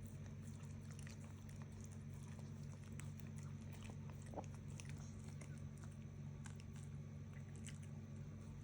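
Faint, irregular licking and smacking of a dog eating yogurt, small clicks over a steady low hum.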